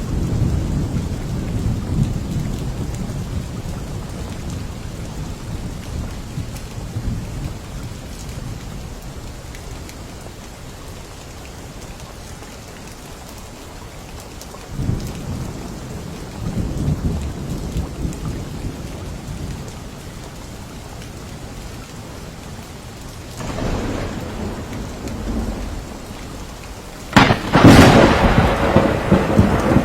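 Thunderstorm with steady rain. A low thunder rumble fades over the first several seconds, more rumbles come around the middle, and a loud, sharp thunderclap near the end is the loudest moment.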